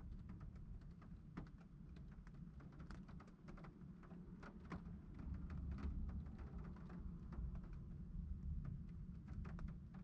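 Scattered raindrops ticking irregularly against a GoPro camera housing in a thunderstorm, over a faint low rumble.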